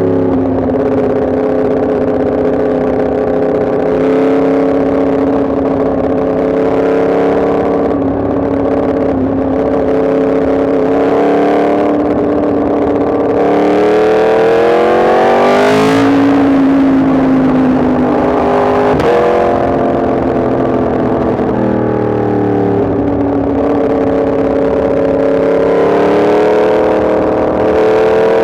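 Yamaha MT-10 SP's crossplane inline-four engine running under way, holding steady revs, then pulling up through the revs for a few seconds around the middle before dropping sharply on an upshift, with another shift a few seconds later.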